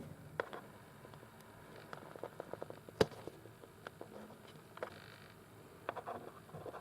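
Scattered light clicks and ticks of small parts being handled, with a quick run of ticks about two seconds in and one sharper click about three seconds in.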